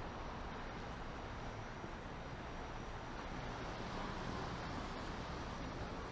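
Steady city street noise of traffic passing on wet pavement, an even hiss and rumble with no single event standing out.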